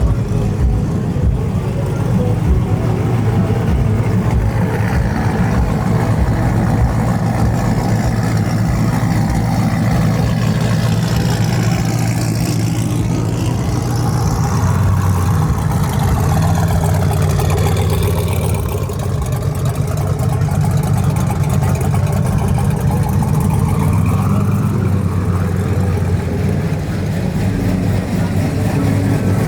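Truck engines running loudly and steadily.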